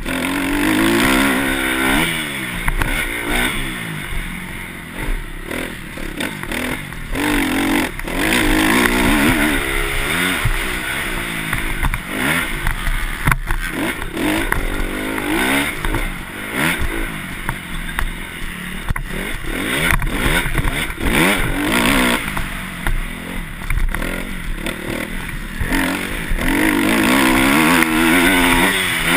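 Motocross bike engine revving up and dropping off again and again, its pitch rising and falling every couple of seconds, over a steady rushing hiss.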